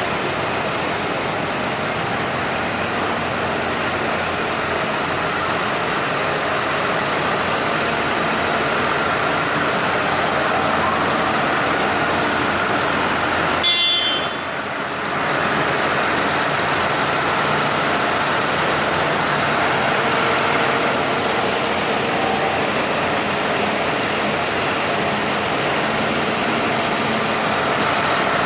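Tractor engines running steadily at low revs, with a single sharp click about halfway through.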